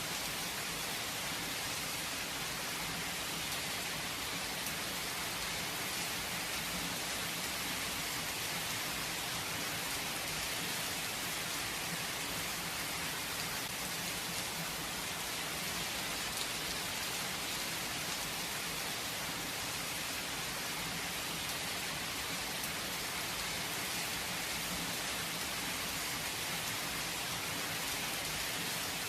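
Steady rain falling, an even hiss of drops with no thunder and no change in strength.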